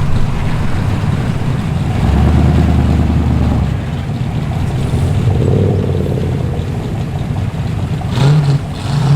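A car engine running loud with a deep, low rumble as the car rolls in, holding a steady low note for a couple of seconds and then briefly revved, its pitch rising and falling about halfway through.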